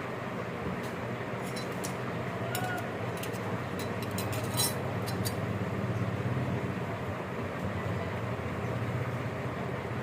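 A steady low background hum with a run of light metallic clicks and clinks in the first half, typical of small metal parts being handled.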